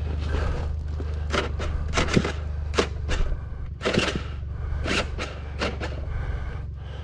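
Irregular knocks and scrapes, about eight of them, from an enduro motorcycle and boots clattering on rocks as it is wrestled over rough ground, over a steady low rumble.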